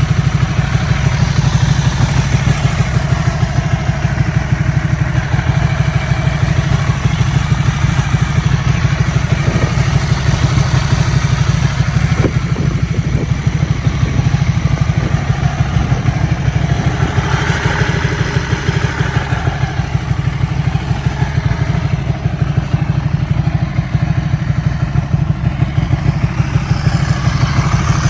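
Ducati 1199 Panigale S's Superquadro L-twin engine idling steadily, with a fast, even low pulse and no revving.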